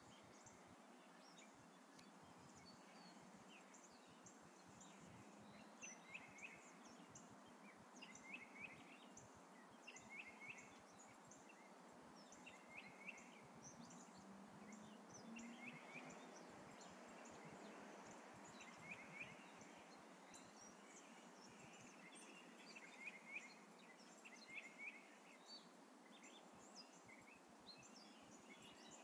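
Faint birdsong from several wild birds: one bird repeats a short chirpy phrase every second or two, while others add scattered higher chirps, over a steady outdoor hiss.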